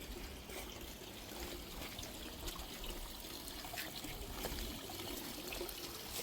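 Water trickling steadily into a garden pond, a continuous splashing with small droplet ticks.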